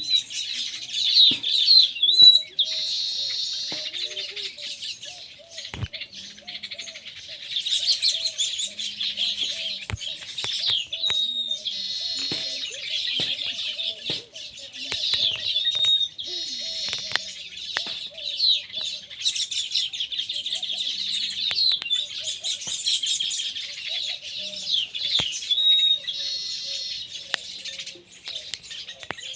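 Baya weavers singing: continuous chattering twitters, broken about four times by a short clear whistle that runs into a wheezy buzz. Scattered sharp clicks sound among the song.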